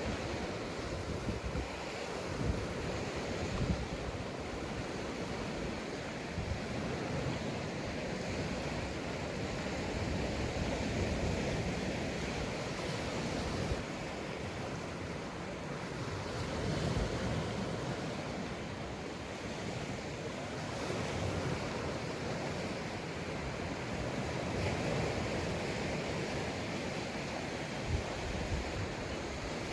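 Sea surf breaking and washing onto a sandy beach: a steady hiss that swells and eases every several seconds, with a few short gusts of wind buffeting the microphone.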